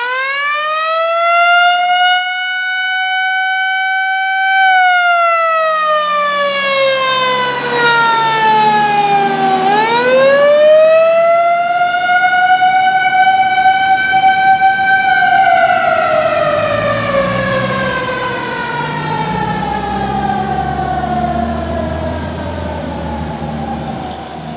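Fire engine siren wailing: it rises, holds, falls, winds up again about ten seconds in, then falls slowly away. The truck's engine runs underneath.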